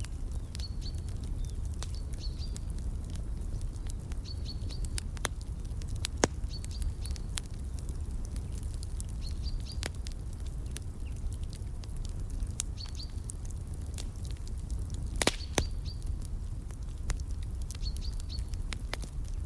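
Wood fire crackling, with scattered sharp pops and a few louder snaps about six and fifteen seconds in, over a low steady rumble. A songbird repeats a short, high chirp of two or three quick notes every second or two.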